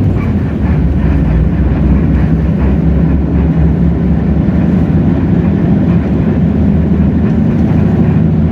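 Hino J08E-VN inline-six diesel engine of a Hino RK8JRVA bus running steadily under way, heard from inside the cabin, with body rattle and road noise.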